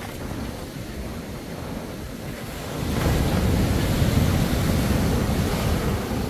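Ocean surf with wind buffeting the microphone. The wash grows louder about three seconds in.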